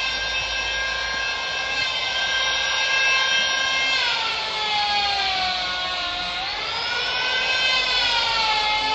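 Electric power tool motor running with a high whine. About four seconds in its pitch sags, then it recovers near the end, as the motor slows under load in the wood and speeds back up.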